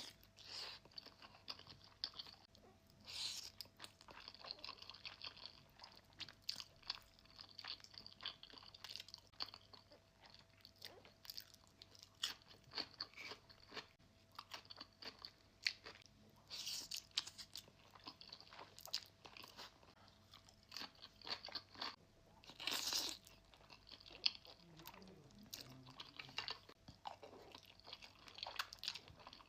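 Close-miked eating: crisp, irregular crunching bites and chewing of crunchy food, with a few louder crunches spread through.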